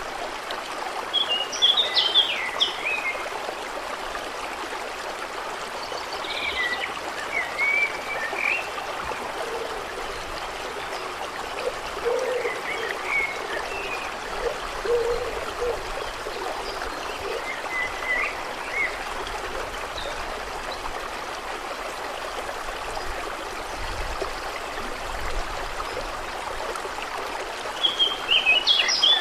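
Steady running water with short clusters of bird chirps every few seconds, the loudest about two seconds in and near the end.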